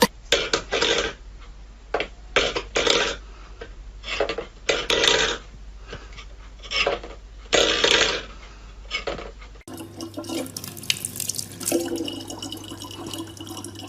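Water sloshing and splashing in short, irregular bursts, then, after a cut, a tap running steadily.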